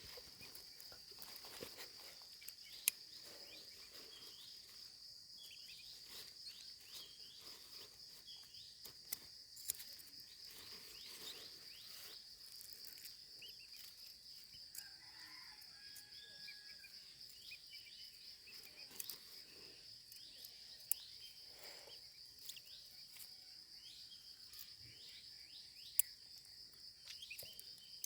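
Faint, steady high-pitched insect trill, with a few sharp clicks scattered through.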